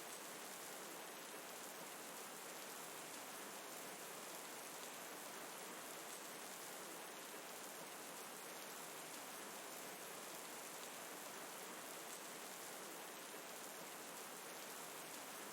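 Steady rain falling, an even hiss that does not change or break.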